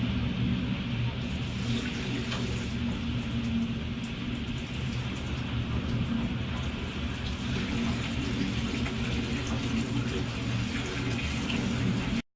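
Steady rushing sound of water, with a low hum underneath, that cuts off abruptly to silence near the end.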